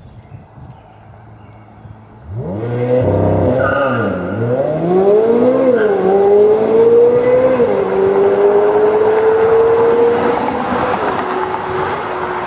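Chevrolet C8 Corvette Z06 prototype's naturally aspirated flat-plane-crank V8 launching hard about two seconds in, its revs climbing steeply as the car pulls away. The pitch drops sharply at each of four upshifts and climbs again.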